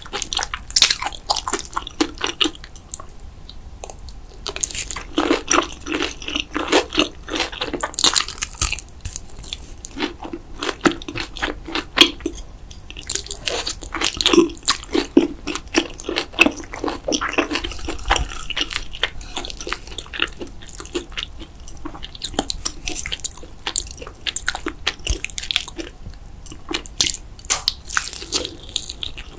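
Close-miked eating: a person biting and chewing food, a dense run of crunchy, wet mouth clicks broken by a few short pauses.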